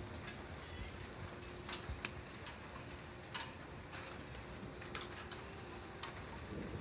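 A steady hiss of background ambience, broken by scattered sharp ticks and a few short chirps like birds.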